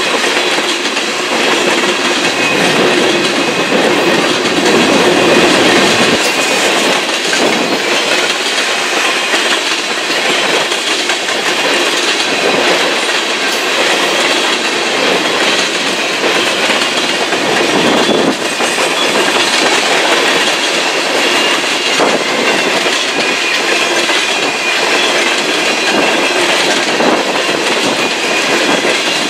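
Freight train of tank cars rolling past close by: a steady, loud rumble of steel wheels on rail, with repeated clicking as the wheels pass over the rail joints.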